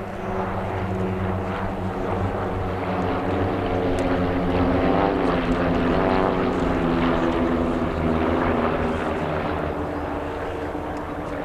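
A propeller aircraft passing overhead, with a steady engine drone that grows louder towards the middle and then eases off.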